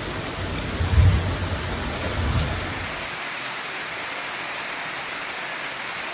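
Heavy rain falling in a steady hiss. Low, uneven rumbling runs under it for the first three seconds, then drops away, leaving an even rain hiss.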